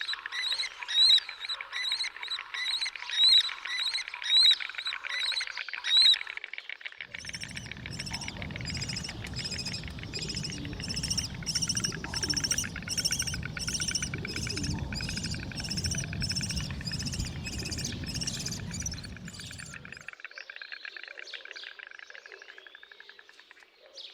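Lesser kestrels calling: sharp, high calls repeated about once a second for the first six seconds, then a faster run of calls over a low rumbling noise, which stops about 20 seconds in, leaving quieter calls.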